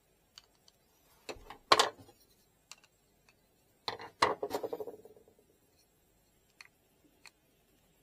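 Small hard objects being handled and set down on a work surface: a few light clicks, and two louder bouts of knocking and clatter, about a second and a half in and about four seconds in, the second rattling briefly.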